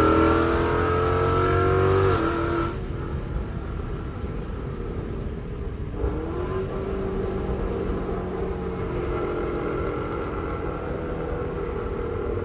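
Straight-piped Ford Mustang GT 5.0 V8 with long-tube headers and Corsa Xtreme exhaust, heard from inside the car, pulling hard with its pitch rising. About two and a half seconds in it lifts off and drops to a lower, steady cruise, with a brief rise in pitch around the middle.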